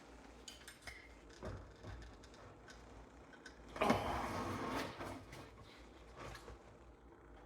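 Workshop handling sounds: scattered light clicks and knocks of tools and parts, with one louder scraping rasp lasting about a second, about four seconds in.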